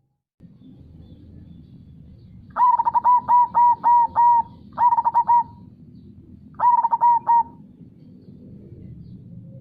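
Zebra dove (perkutut) cooing in three quick runs of rapid staccato notes: a long run of about seven notes, then two shorter runs of three or four. A low, steady rushing of river water lies beneath.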